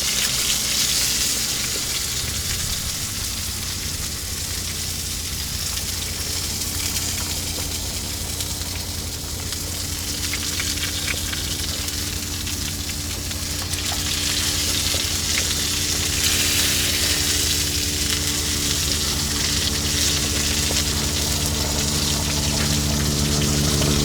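Salmon fillet sizzling as it fries in a pan on a portable propane stove, a steady hiss. A steady low hum runs beneath it from about two seconds in, getting louder near the end.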